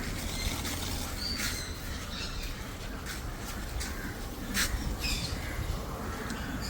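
Birds giving a few short, high chirps and squawks over a steady low background rumble.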